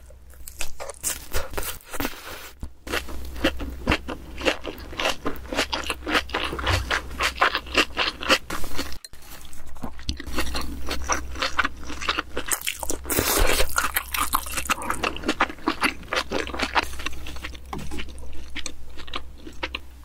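Close-miked eating of raw salmon and rice: wet chewing, mouth clicks and crunchy bites, dense and irregular, with a brief break about nine seconds in.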